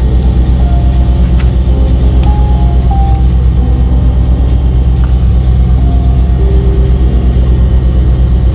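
Heavy diesel truck engine idling: a steady low drone that does not change, with faint short tones of music over it.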